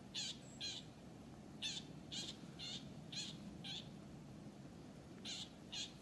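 A bird calling: short, high calls about two a second, coming in bouts of two, five and two with short pauses between.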